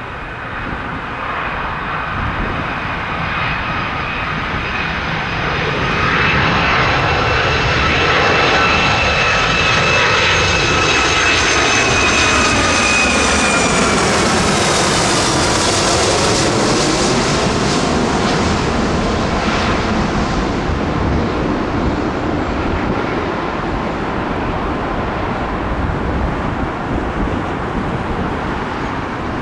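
Jet airliner passing low overhead: the engine noise builds over several seconds, its whine drops in pitch as it passes about halfway through, then it fades slowly.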